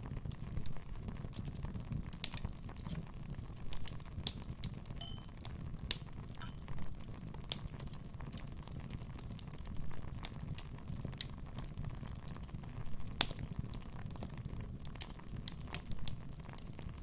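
Fire burning in a fireplace, crackling with irregular sharp pops over a steady low rumble of the flames; the loudest pop comes about 13 seconds in.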